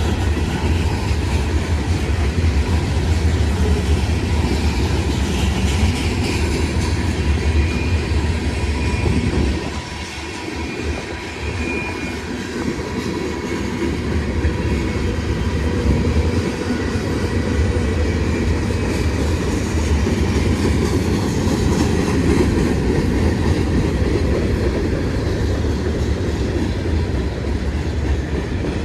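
Freight train cars rolling steadily past on the rails, with the clatter of their wheels and a brief faint wheel squeal about a third of the way through.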